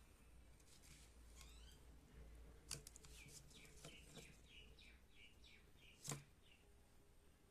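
Faint bird chirping: a quick run of short high chirps, about three a second, over near silence, with two sharp clicks, one a little under three seconds in and a louder one about six seconds in.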